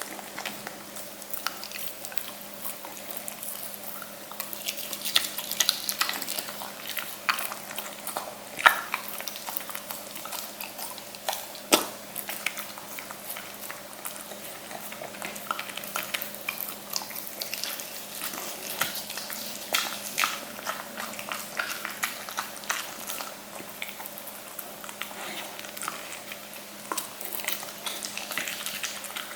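A Welsh corgi chewing and biting food, with irregular wet clicks and crunches of its teeth and mouth.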